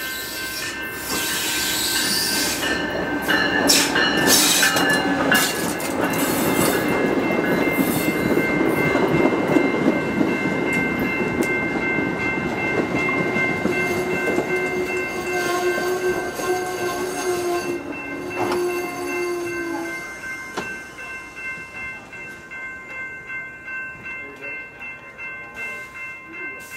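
Amtrak passenger train passing around a curve, its rumble and clatter swelling about a second in and falling away after about twenty seconds, with steady high ringing tones over it.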